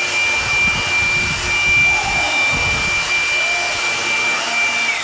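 An electric motor runs with a high, steady whine over a rushing hiss. Its pitch drops as it shuts off near the end.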